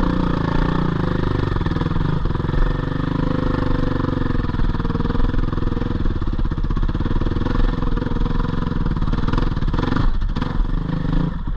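Four-stroke GPX 450R dirt bike engine running at fairly steady revs, with a brief dip near the end.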